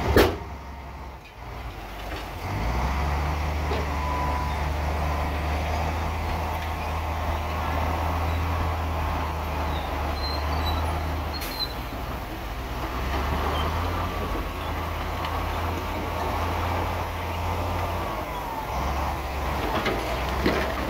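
A sharp bang, then the heavy diesel engine of earthmoving machinery running steadily, its pitch shifting a few times, with faint squeals over it.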